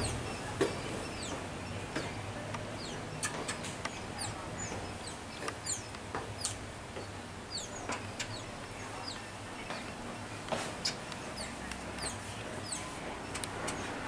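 Birds chirping: many short, high calls, each dropping in pitch, scattered irregularly over a steady hiss, with a few faint knocks.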